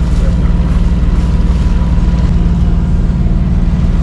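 A sailing yacht's inboard engine running steadily under way, a loud, even low drone.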